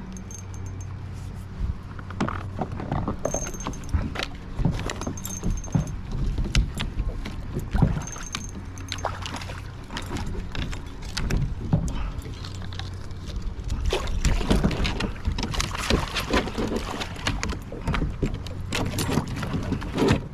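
Irregular knocks and clatter against a kayak with metallic clinks while a hooked trout is fought and landed, over a steady low rumble.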